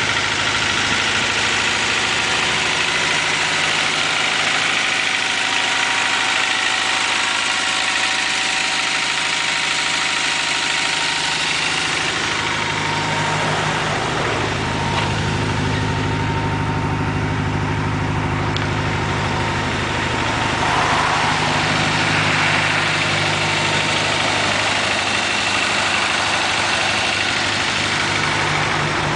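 Turbocharged Honda H23A 2.3-litre four-cylinder idling steadily while still cold; its low note grows stronger about twelve seconds in. The owner calls the cold engine's noise typical forged-piston noise.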